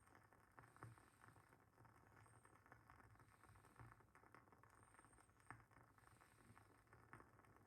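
Faint, irregular crackling and popping of a burning WoodWick candle's wooden wick, a few soft clicks a second with a handful of louder pops.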